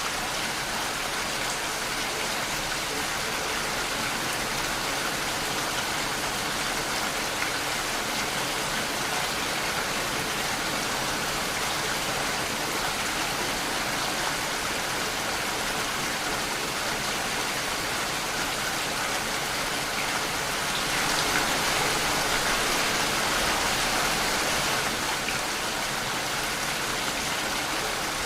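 Steady rain falling, an even hiss of drops that grows heavier for a few seconds about three quarters of the way through.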